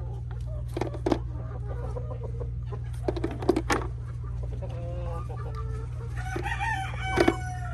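Domestic chickens clucking and calling, with the calls busiest near the end, over a steady low hum; a few sharp clicks or knocks are heard about a second in and again around the middle.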